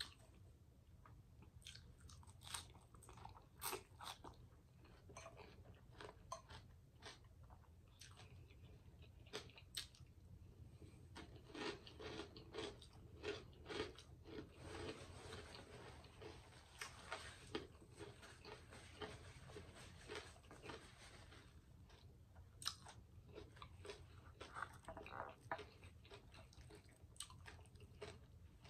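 Faint close-miked chewing and mouth sounds of a person eating, with scattered sharp clicks throughout; the chewing is densest through the middle.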